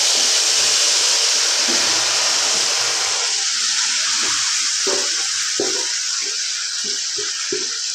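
Raw chicken pieces hitting hot oil in a nonstick wok, giving loud, steady sizzling that eases slightly. From about three seconds in, a wooden spatula knocks and scrapes against the pan as the chicken is stirred.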